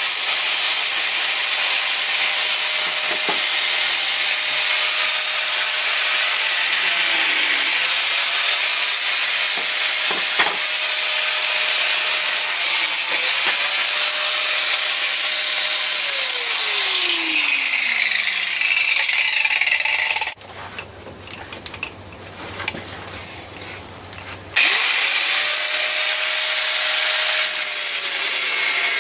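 Angle grinder with an abrasive wheel grinding spring steel. Its high whine dips briefly under load and recovers, then winds down and stops about two-thirds of the way through. After a pause of a few seconds it is switched on again and spins back up to full speed.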